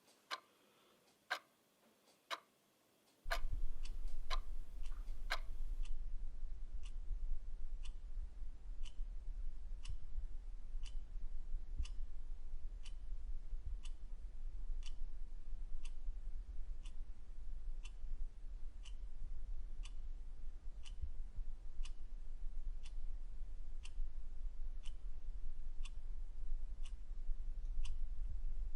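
Clock ticking steadily at about one tick a second. A steady low hum sets in about three seconds in and continues beneath the ticks.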